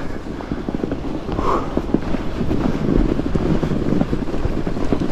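Wind buffeting the camera microphone over the low rumble and crackle of a fat bike's studded tires rolling through soft snow.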